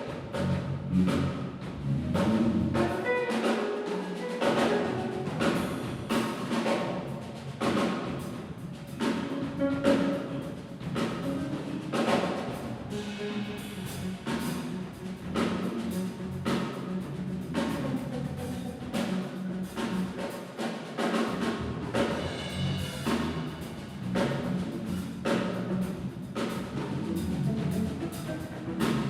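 Drum kit played in a fast, continuous solo: dense strikes several times a second with rolls, over a steady low tone underneath.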